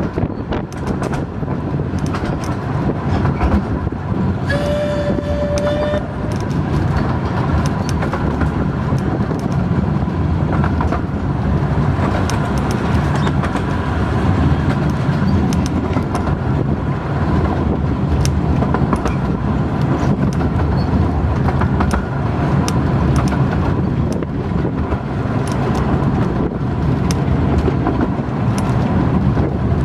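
Romney, Hythe and Dymchurch Railway miniature train running along the track, a steady rumble with frequent clicks of the wheels over the rails. About four seconds in, the locomotive sounds one short high note for about a second and a half.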